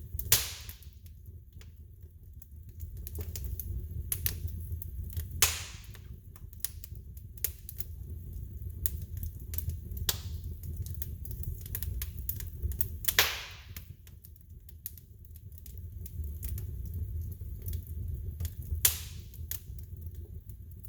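Wood fire burning in a fireplace: a steady low rumble of the flames under frequent small crackles, with four louder pops spread through it.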